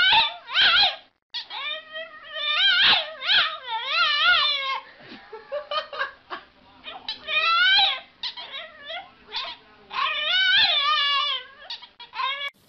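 French bulldog puppy "talking": a string of warbling, wavering howl-whines, the first few about a second long and the later ones shorter, with brief pauses between them.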